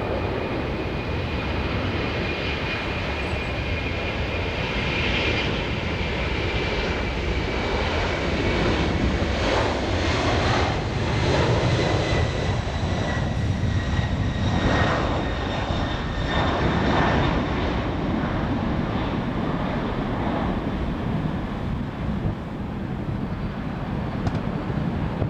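Boeing 747 freighter's four jet engines at takeoff power as it lifts off: a steady roar with a thin high whine that slowly falls in pitch, swelling louder through the middle and easing off toward the end.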